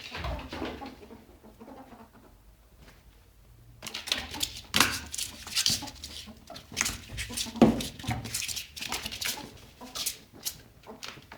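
Pet ferret dooking, the soft clucking chatter of a happy, playful ferret doing its war dance, in quick irregular bursts mixed with short knocks and scuffles. It begins after a few quiet seconds and runs on until near the end.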